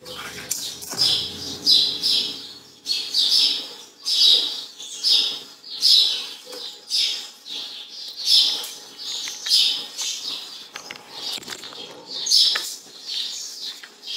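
A bird chirping over and over, one short high-pitched chirp call about every second.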